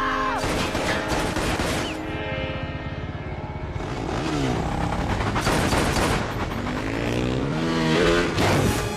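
Film action soundtrack: motorcycle engines revving and dropping as they race, with the pitch falling about halfway through and climbing in several surges near the end, over a tense orchestral score with sharp hits.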